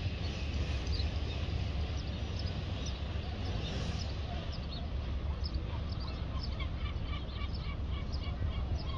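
Birds chirping: many short, quick calls, growing denser about halfway through, over a steady low rumble.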